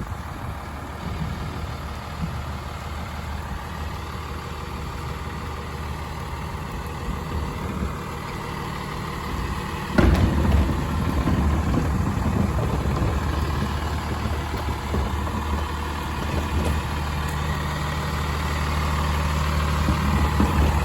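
Truck engine idling steadily, with a sharp knock about halfway through, after which the engine runs a little louder.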